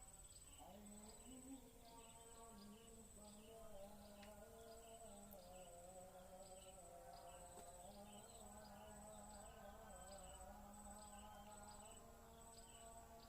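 Faint insects chirping in a steady, evenly repeating pulse, with a soft wavering drone of held tones coming in under a second in.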